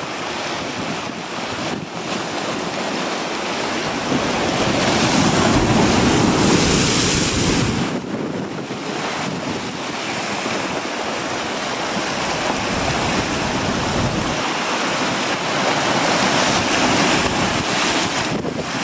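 Strong wind buffeting the microphone over the rush of ocean surf, swelling in two big gusts, about four seconds in and again near the end.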